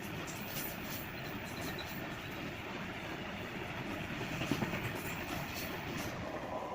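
Train running through a station at speed without stopping: a steady rumble of wheels on the rails, with repeated sharp clicks as the wheels cross the rail joints.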